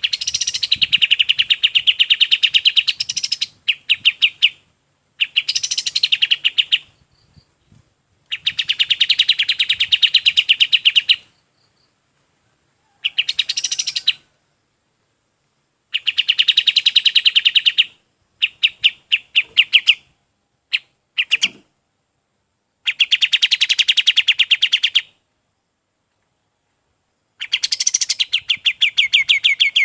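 Pied triller (kapas tembak) singing: a series of fast, rattling trills, each bout running one to three seconds, repeated about ten times with short pauses between.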